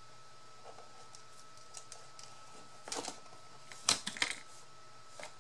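A few light clicks and taps from craft materials being handled and cut at a worktable: a small cluster about three seconds in, the loudest sharp click about a second later followed by two more, and a faint one near the end.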